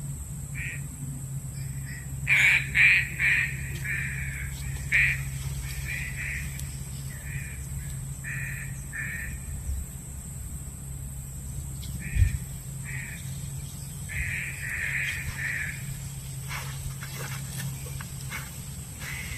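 Punai daun green pigeons calling: a string of short, repeated call notes that come in clusters, loudest about 2 to 3 seconds in and again about 14 to 16 seconds in, over a steady low hum. A single thump about 12 seconds in.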